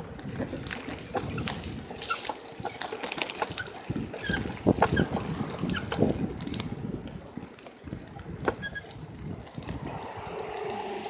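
Bicycle being ridden, rattling and clicking irregularly, with a couple of sharper knocks about five and six seconds in.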